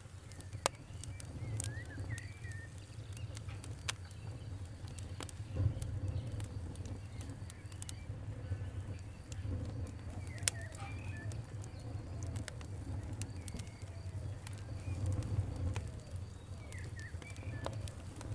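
Wood fire crackling, with sharp pops every second or few over a steady low rumble of the flames. Birds chirp faintly in the background.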